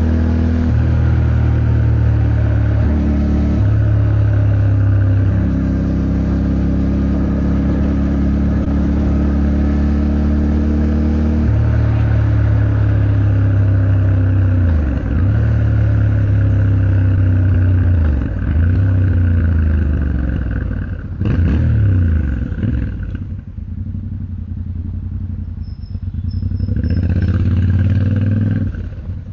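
Yamaha Ténéré 700's parallel-twin engine under way in traffic, its pitch stepping through gear changes. The revs rise and fall repeatedly, drop low for a few seconds, then pick up again near the end.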